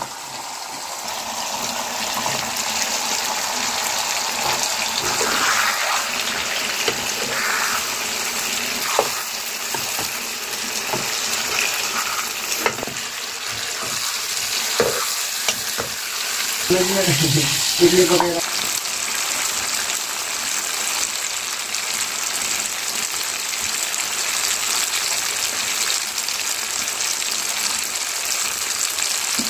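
Boiled potatoes sizzling steadily as they fry in a tomato masala in a black pan over a wood fire. A steel ladle stirs and knocks against the pan now and then. A brief pitched sound comes about halfway through.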